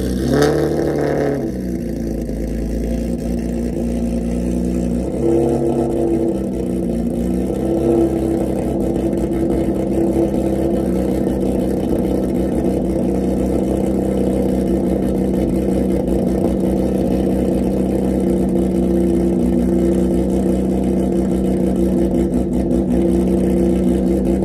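Nissan 350Z's 3.5-litre VQ V6 with aftermarket Tomei camshafts running on a cold start, heard at the exhaust: revs fall back from a throttle blip in the first second or so, then it settles into a steady idle.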